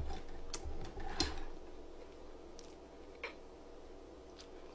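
Eating sounds from chewing fried chicken close to the microphone: about five faint, sharp mouth clicks, spaced irregularly, over a low steady hum.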